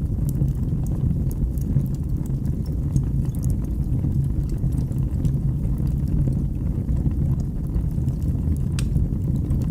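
Wood fire burning in a fireplace: a steady low rumble of the flames with frequent small crackles and pops, and one sharper pop near the end.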